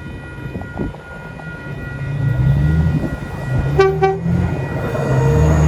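A V set electric passenger train approaching and passing, its traction motors giving a low hum that rises in pitch and grows louder. About four seconds in, a short toot on its horn.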